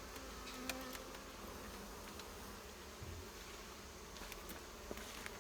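Honeybees from an open, busy hive buzzing steadily around the entrance, with a few faint clicks scattered through.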